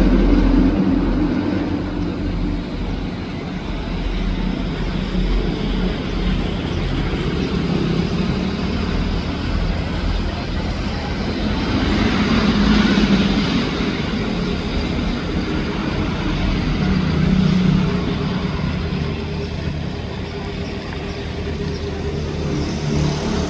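A boat's engine running steadily, with a rise in level about halfway through.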